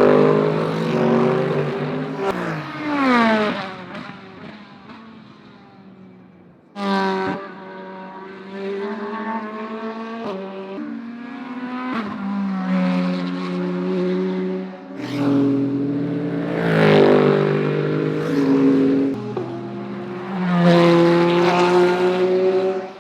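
Naturally aspirated V8 GT3 race cars at full pace, several loud flybys one after another. The engine pitch falls away as a car passes and steps up and down through gear changes.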